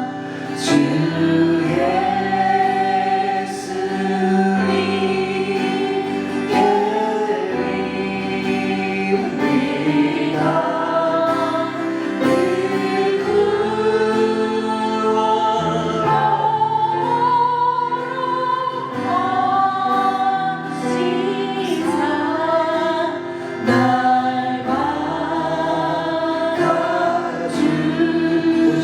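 Voices singing a Korean worship hymn together over instrumental accompaniment, in long held notes.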